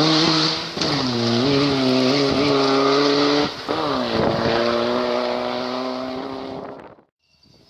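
Rally car engine at full throttle pulling away through the gears, the note dropping at upshifts about a second in and again around three and a half seconds in, then fading before the sound cuts off suddenly near the end.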